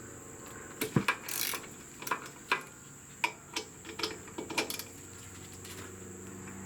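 Irregular sharp metallic clicks and clinks of a wrench working on the motorcycle's 14 mm rear brake caliper bolts as they are cracked loose, thickest in the first half and thinning out after about five seconds.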